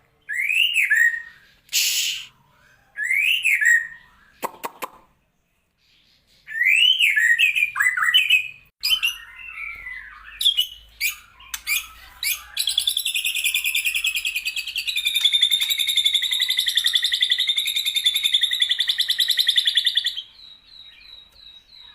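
White-rumped shama singing: loud, arched whistled notes and scattered chirps, then a long, rapid, buzzy trill that stops abruptly.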